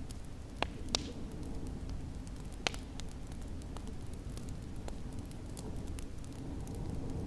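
Wood fire crackling in a fireplace, with sharp pops about half a second in, about a second in and near three seconds, and fainter ticks throughout, over a steady low rush of snowstorm wind.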